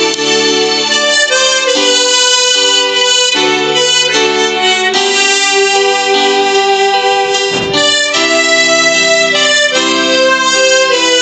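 Tremolo harmonica playing a melody in held notes that change every second or so, with lower sustained notes underneath.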